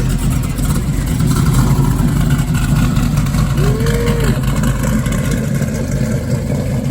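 A race car's engine idling steadily, loud and low-pitched.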